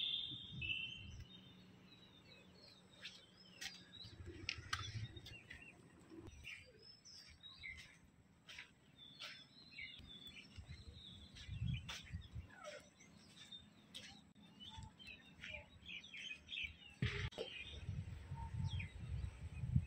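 Birds chirping: many short, scattered calls. Low rumbling thumps come in now and then, most about three quarters of the way through.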